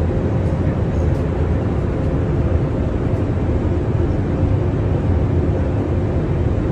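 Steady cockpit noise of an Airbus A350 airliner on approach: an even rush of airflow and systems, strongest in the low range, with a faint steady hum.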